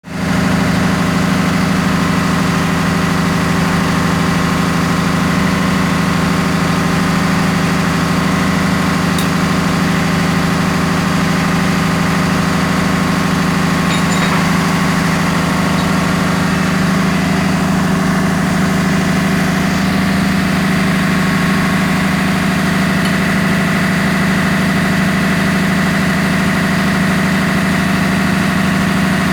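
Ship's engine-room machinery running: a loud, constant drone with a strong low hum and steady tones above it.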